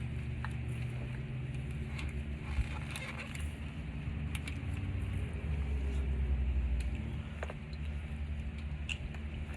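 Scattered light metallic clicks and clinks of hand tools while loosening an oil filter under an SUV, over a steady low rumble that swells for a couple of seconds past the middle.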